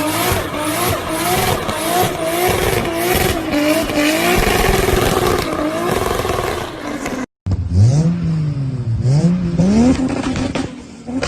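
Toyota Supra straight-six engine running at high revs, its pitch wavering up and down about twice a second. After a sudden break about seven seconds in, a Supra engine revs up twice from low, then holds a steady raised speed.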